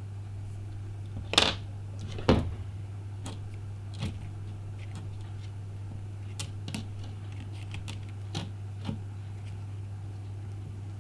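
Small hand tools clicking and tapping against the parts of an iPhone 5 as it is pried apart for a screen replacement. Two sharper clicks come close together in the first few seconds, then lighter scattered ticks, over a steady low electrical hum.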